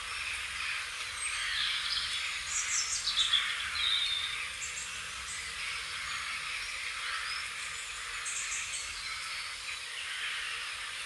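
Birds chirping and singing over a steady dense background chorus, with the loudest calls from about two to four seconds in.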